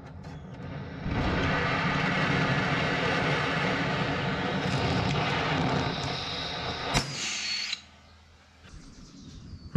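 Oxy-acetylene cutting torch hissing steadily for about seven seconds with the cutting oxygen open. It cuts off after a click near the end. The torch is burning poorly: a propane cutting tip is being used with acetylene, and the tip has melted.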